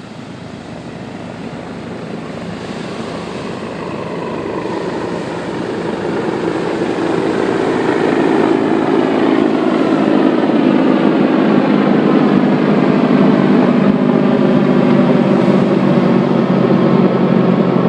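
Helicopters flying in low overhead: rotor and engine noise that grows steadily louder over the first eight seconds or so, then holds loud and steady.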